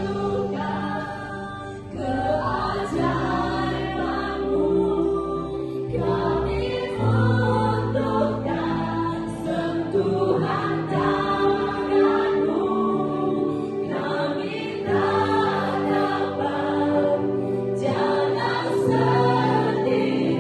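Worship music: several voices singing over long held instrumental notes and a bass line.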